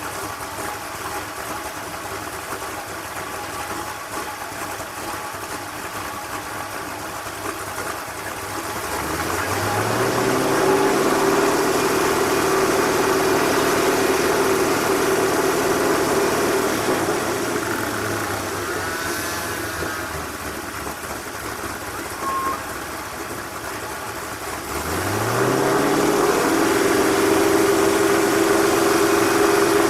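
Race car engine idling, then twice revved up quickly and held at high, steady revs for several seconds: first about 9 seconds in, then again about 25 seconds in.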